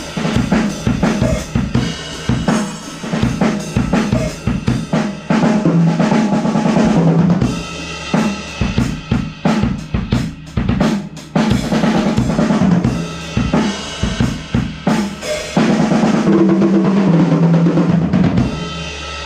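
Sonor AQ2 Safari compact drum kit played in a basic groove: 16-inch kick, 13-inch snare and hi-hats in a steady beat, with fills across the small 8-, 10- and 13-inch toms and crash cymbal hits. The sound is heard through a GoPro Hero 5's built-in microphone.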